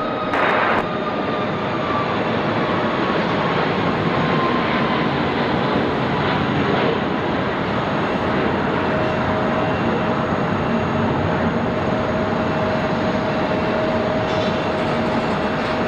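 Boeing 737-800's CFM56 jet engines at takeoff thrust on the takeoff roll: a steady, loud roar with a thin whine that slowly falls in pitch.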